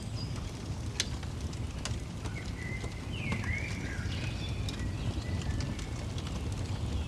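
Wood fire crackling, with scattered sharp pops over a steady low rush, while songbirds sing short whistled phrases.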